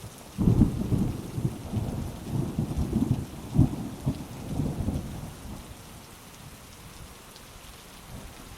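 Heavy rain falling steadily, with a thunderclap about half a second in that breaks into a low, crackling rumble rolling on for several seconds before it fades back under the rain.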